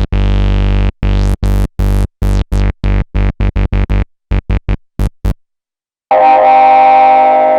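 Korg monologue analog monosynth playing a factory preset: a deep bass line of short notes, each opening bright and quickly closing down, the notes getting shorter and faster before stopping about five seconds in. After a brief silence a different, sustained and buzzier preset sound begins near the end.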